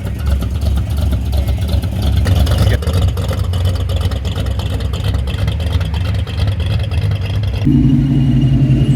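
Car engines running with a deep, steady rumble. Near the end a louder, steadier engine note abruptly takes over.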